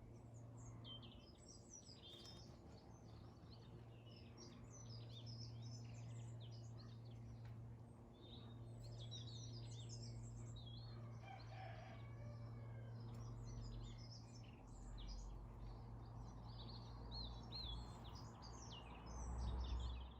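Garden birds chirping, many short, high calls overlapping throughout, over a steady low hum.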